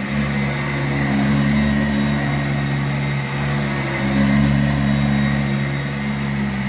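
Sanitaire SC684G upright vacuum cleaner running steadily on carpet, its motor hum shifting slightly in pitch and level about four seconds in.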